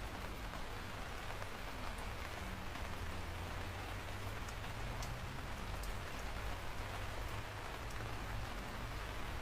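Steady rain falling, a continuous hiss of raindrops with a few sharp drop ticks here and there.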